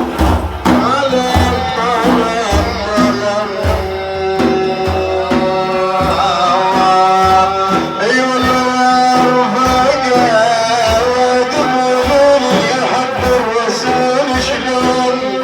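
A man singing long, ornamented held notes of a Sufi praise chant, over steady hand-drum beats.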